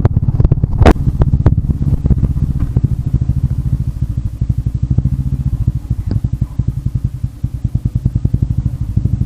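Motorcycle engine running as the bike rides along, a steady low pulsing note. A sharp click about a second in.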